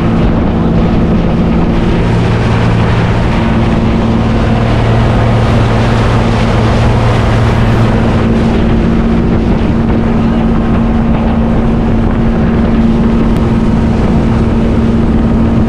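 Motorboat engine running at a steady pitch while under way, with wind buffeting the microphone.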